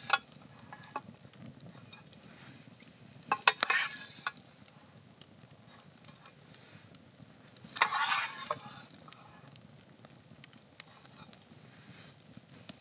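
Food sizzling in a pan over a campfire, with scattered sharp crackles. A utensil stirs and scrapes in the pan in short bursts, about three and a half seconds in and again about eight seconds in.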